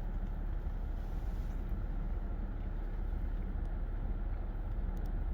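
Steady low rumble of background noise, with a few faint ticks near the end.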